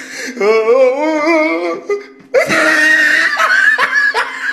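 A person's voice wavering up and down, then from about two seconds in a loud, shrill burst of screaming laughter.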